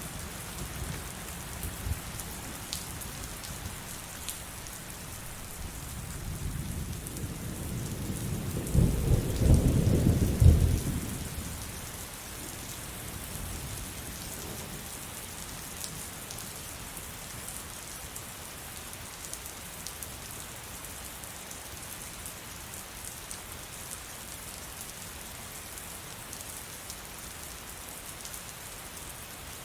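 Heavy rain falling steadily. A roll of thunder swells about a fifth of the way in, rumbles loudest for a couple of seconds, then dies away, leaving the rain.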